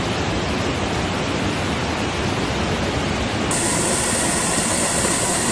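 Swollen river in flood rushing past in a steady, loud noise of churning water. About three and a half seconds in, the sound changes abruptly and turns brighter as a different stretch of floodwater footage begins.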